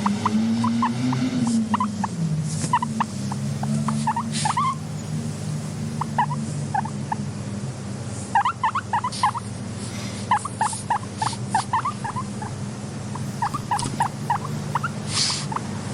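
Guinea pig squeaking and chirping: many short, rising squeaks that come in quick clusters, over a steady low hum.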